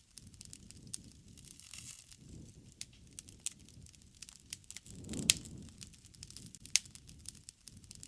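Wood campfire crackling: irregular sharp pops and snaps over a low rumble of burning, with the loudest pop about five seconds in and another near seven seconds.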